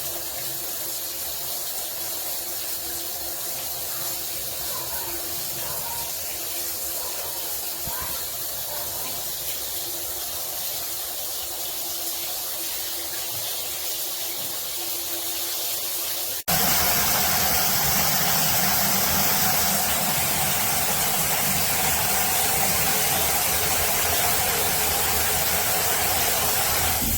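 Water spraying steadily from a large rain shower head, a constant hiss of falling streams. About two-thirds of the way through it cuts abruptly to a louder, fuller spray.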